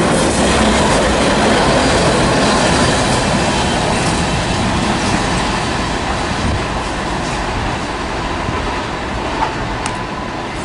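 Freight train with several diesel locomotives passing close by: a steady, loud rumble of engines and wheels with clickety-clack over the rail joints, slowly getting quieter.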